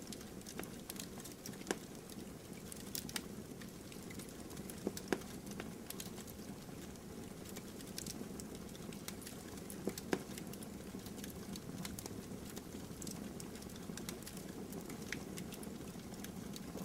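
Bonfire burning: a steady low rush of flames with irregular crackles and pops throughout, a few of them louder snaps.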